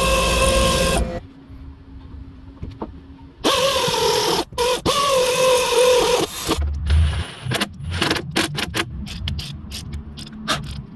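A power tool runs in two bursts, the second with a wavering pitch, while working on a car's rear wheel bearing and hub. It is followed by a quick, uneven series of sharp metallic knocks and clicks.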